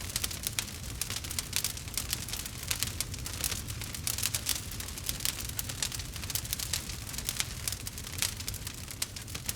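Fireplace crackling: a dense, irregular run of sharp pops and snaps over a steady low rumble.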